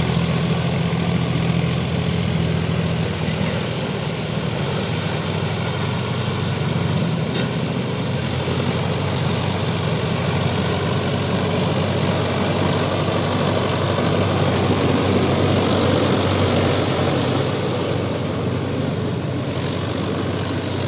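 Mahindra Yuvo Tech Plus 585 DI tractor's diesel engine running steadily while it works a rotavator through wet mud, a continuous low engine note over a constant churning noise.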